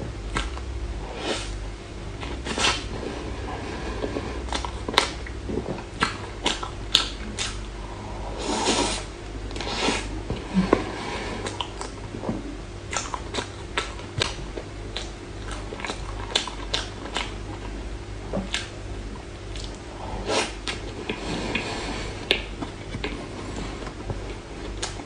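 Close-miked eating of a mousse cake: many sharp mouth clicks and smacks with a few longer wet chewing sounds, over a faint steady hum.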